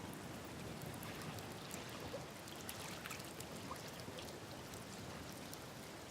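Wood campfire burning on open ground, crackling with scattered small pops over a steady hiss.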